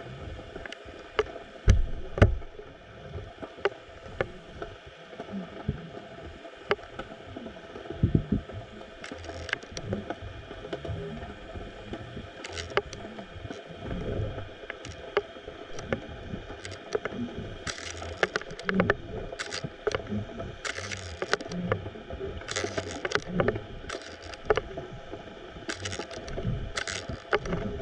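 Underwater sound picked up by a GoPro in its waterproof housing: a steady hum of several level tones over a wash of water noise, broken by irregular sharp clicks and knocks that come more often in the second half.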